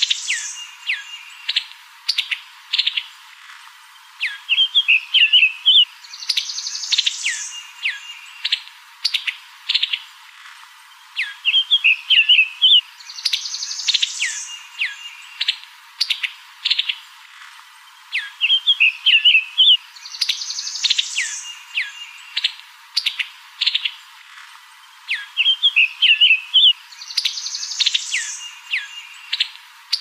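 Bird chirps, quick trills and rising calls, a looped birdsong recording that repeats the same phrase about every seven seconds.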